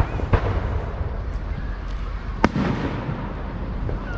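Fireworks going off: two sharp bangs about two seconds apart, each trailing off briefly.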